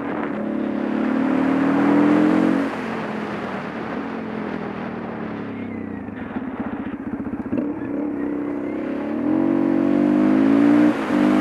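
Supermoto motorcycle engine pulling uphill with its pitch rising, then dropping off sharply about three seconds in. It runs at low throttle through a tight bend, its firing heard as slow even pulses, before the revs climb again near the end and dip briefly as the throttle is shut. Wind rush over the camera runs underneath.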